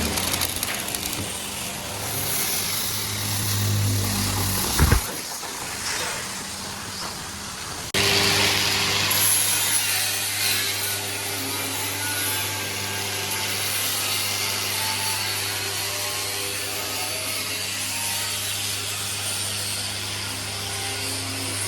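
Workshop power tool running with a steady hiss and a sharp knock about five seconds in. About eight seconds in the sound changes abruptly to a steady low hum under a hiss.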